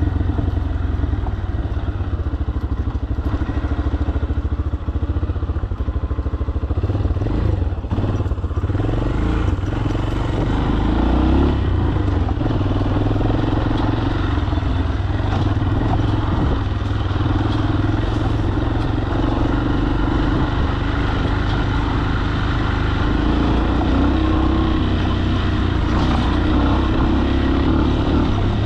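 Falat 200 cc single-cylinder motorcycle engine running steadily under way, heard from the rider's camera. It gets a little louder from about ten seconds in.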